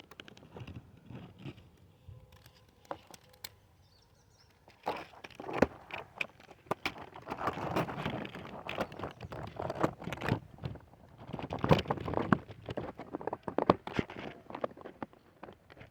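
Irregular rustling and crackling with scattered sharp clicks, busier and louder from about a third of the way in.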